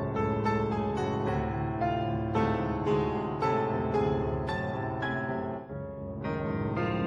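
Background piano music, old silent-film accompaniment, with notes struck in a steady, lively rhythm.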